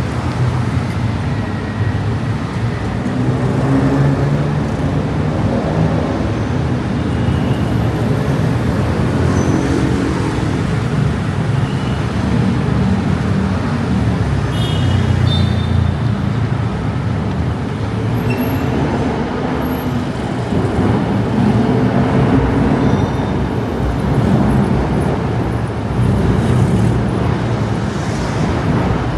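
Heavy city road traffic close by: bus and car engines droning steadily, their pitch rising and falling as vehicles pass.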